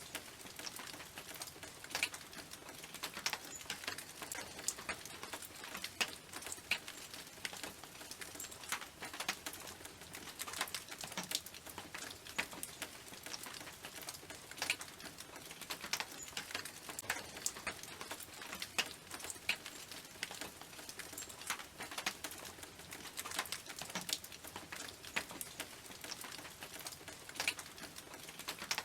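Rain falling on a tin roof: a dense, irregular patter of individual drops striking the metal over a steady hiss of rain.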